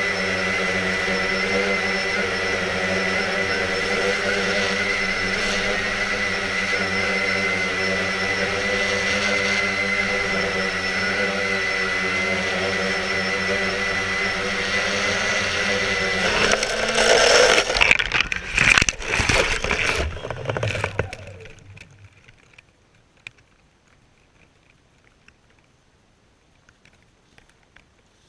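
Quanum Nova quadcopter's electric motors and propellers running with a steady whine. About sixteen seconds in, the sound breaks into a few seconds of loud irregular knocks and rattling as the quad comes down, then the motors stop and it goes nearly quiet.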